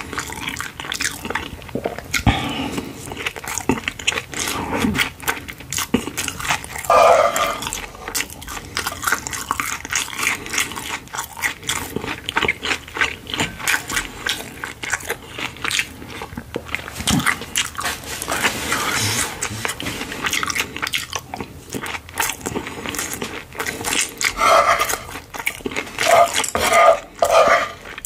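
Close-miked chewing of fried rice: wet mouth clicks and smacking in a dense, irregular patter, with a few short, louder throat sounds about 7 seconds in and again near the end.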